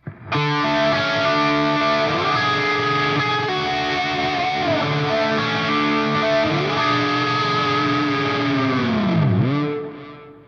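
Distorted electric guitar through a Line 6 Helix crunch preset, ringing out sustained chords that change every second or two. Near the end the whole chord dives sharply in pitch and swings back up, then dies away.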